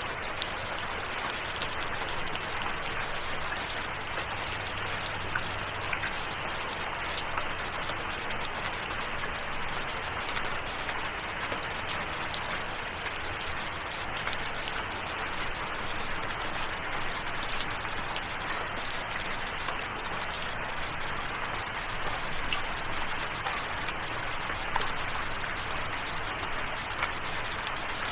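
Steady rain falling, with individual drops heard as short, sharp clicks scattered all through it.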